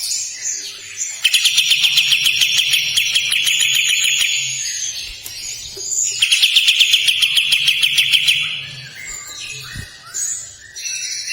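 Kapas tembak songbird singing: two long, harsh rasping rattles, each running for about three seconds, with short whistled notes between them.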